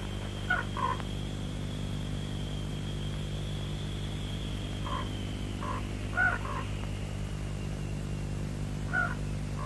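Several short bird calls scattered through, in pairs and singly, over a steady low hum and a faint high whine.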